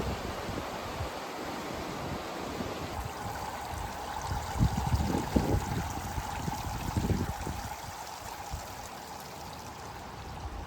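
Steady rushing of running water, with wind buffeting the microphone in gusts around the middle.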